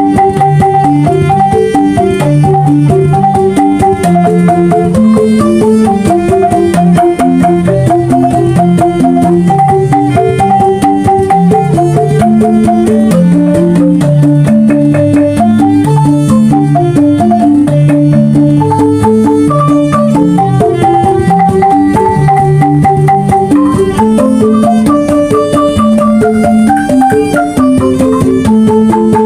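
Banyuwangi angklung ensemble playing a traditional gending: struck bamboo tubes ring out quick runs of short pitched notes over a steady beat of hand-drum strokes.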